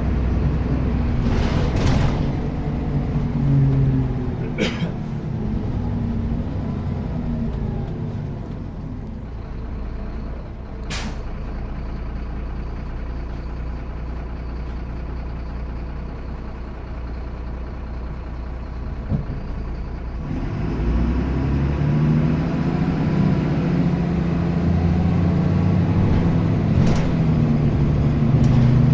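Diesel bus running, with several short sharp air hisses from its air brakes. The engine note drops to a low hum through the middle and builds up strongly again about twenty seconds in.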